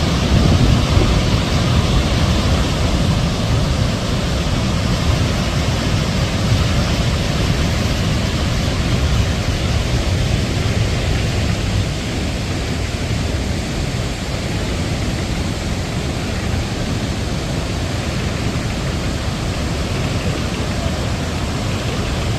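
Waterfall rushing: a loud, steady wash of falling water, heaviest in the low end.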